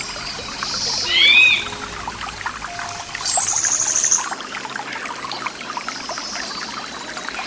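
Stream water flowing steadily with a fine trickling sound, with birds calling over it: two short arching chirps about a second in and a fast high trill a little after three seconds.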